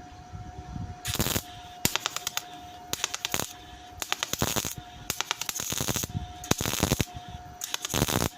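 Welder laying short runs on thin sheet-steel bodywork: seven crackling bursts, each about half a second to a second long, with brief pauses between them.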